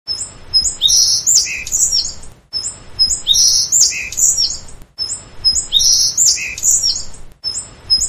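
Songbird chirping: a short phrase of high chirps and whistles that repeats identically about every two and a half seconds, a looped birdsong recording.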